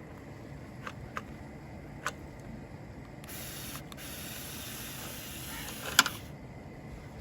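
Small electric motor of a toy RC tractor whirring for about three seconds, ending on a sharp click, with a few lighter clicks before it.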